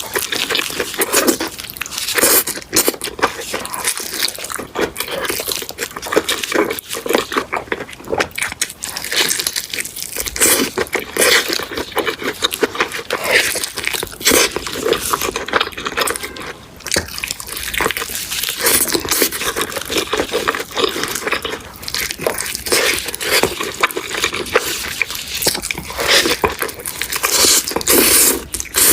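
Close-up eating sounds: someone biting and chewing a breaded cheese chicken cutlet and noodles, with many short crunches and clicks following one another.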